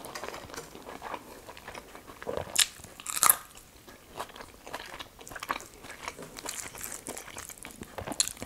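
A person chewing a mouthful of rice and greens, with small wet mouth clicks. Two louder crunchy bites come about two and a half and three seconds in.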